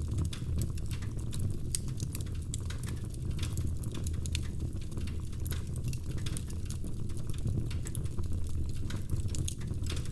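Wood fire in a fireplace crackling and popping: many small irregular snaps over a steady low rumble.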